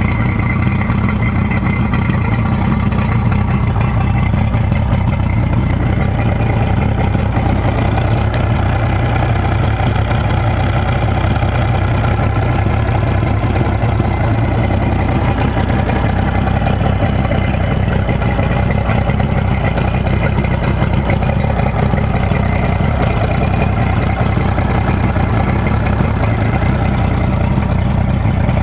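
A 2004 Mercury 225 HP two-stroke V6 outboard engine idling steadily, with no change in speed.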